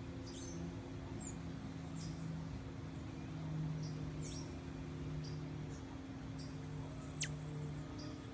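Small songbirds calling with scattered short, high chip notes, and one sharp, steeply falling whistle about seven seconds in. A steady low hum runs underneath.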